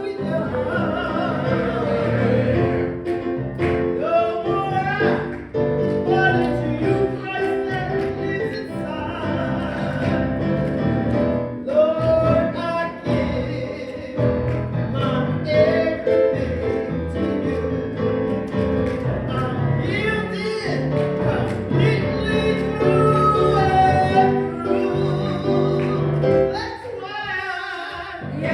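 Gospel choir singing with instrumental accompaniment, dipping briefly near the end before the singing picks up again.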